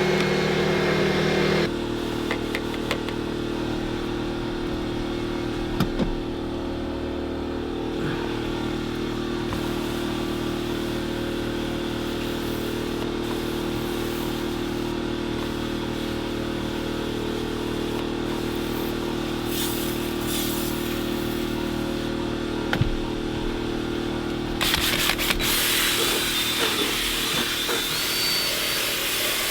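A small electric motor running steadily with a constant hum, its pitch and level shifting slightly about two seconds in. A few light knocks come through, and near the end a louder hiss joins the hum.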